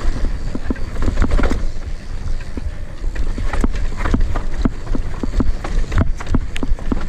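Footsteps crunching irregularly on a dirt trail, about two to three steps a second, over a steady rumble of wind on the microphone.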